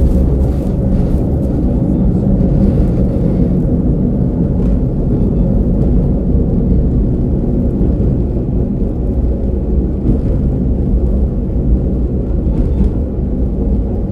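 Onboard running sound of a KiHa 47 diesel railcar under way: a steady low rumble of the diesel engine and the wheels on the rails. It is muffled, recorded from inside a pocket.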